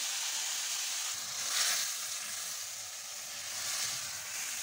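Yogurt-marinated chicken sizzling in a hot pan with browned onions as it is stirred with a spatula; the sizzle swells louder about a second and a half in.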